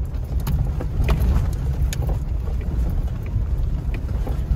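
A car driving: a steady low rumble of engine and road, with scattered light clicks and rattles.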